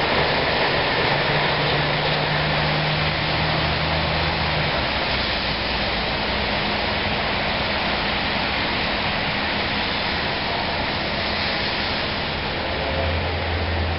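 Amtrak GE P42DC diesel locomotive pulling its passenger train along under power, a low steady engine note that fades about five seconds in and comes back near the end, over a constant hiss of rain and rolling train.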